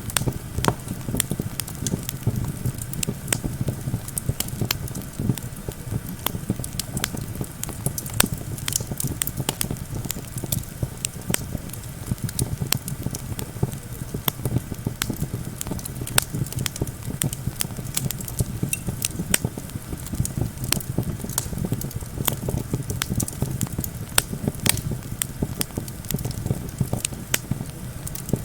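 Wood campfire crackling, with frequent irregular sharp pops and snaps over a steady low rumble of wind.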